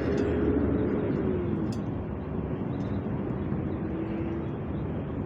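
Steady city traffic noise, with a vehicle's engine tone heard over it for the first second and a half, dipping as it fades, and again from about three to four and a half seconds in.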